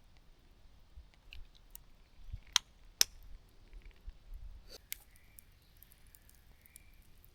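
A few scattered sharp clicks and light taps of small hard objects being handled, the two loudest about two and a half and three seconds in.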